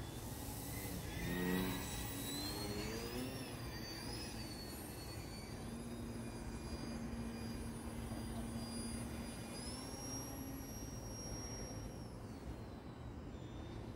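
E-flite Eratix flat-foam RC plane's electric brushless motor and propeller whining, its high pitch rising and falling with throttle changes. It swells louder about a second and a half in.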